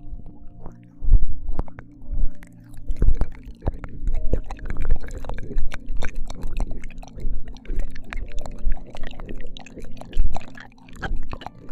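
ASMR ear-licking mouth sounds close to a binaural microphone: a run of wet clicks, smacks and squelches at an irregular pace, over a steady low drone.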